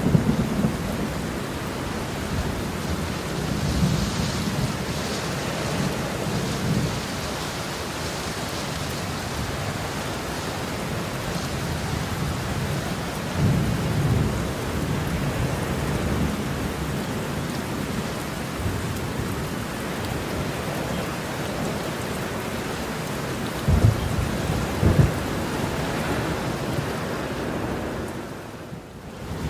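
Heavy rain falling steadily, with thunder rumbling low several times. There are two sharper claps of thunder a little over halfway through the second half, and the rain briefly drops away just before the end.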